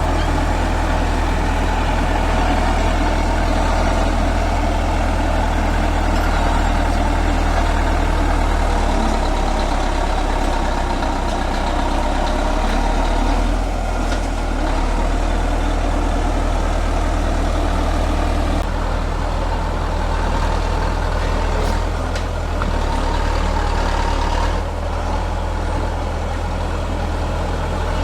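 Heavy diesel engine of a bulldozer running steadily with a deep hum, dipping slightly in level a few times.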